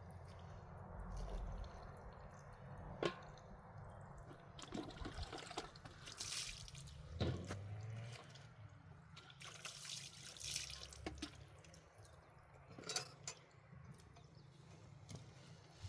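Faint water splashing and dripping in short, irregular spells, with a few sharp light knocks.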